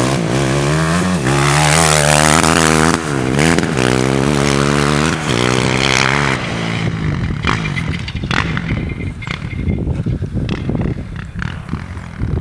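Four-wheeler (ATV) engine revving, its pitch rising and falling several times over the first six seconds or so. It then gives way to a rougher, crackling noise.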